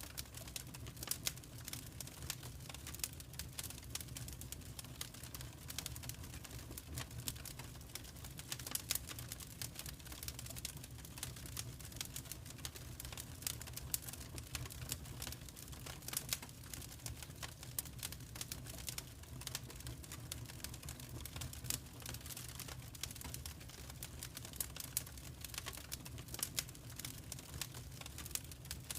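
Fireplace fire crackling: irregular sharp crackles and pops over a steady low rumble.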